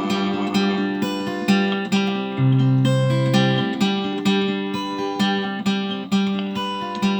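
Acoustic guitar strummed and picked in a steady rhythm, playing an instrumental break between verses of a folk song.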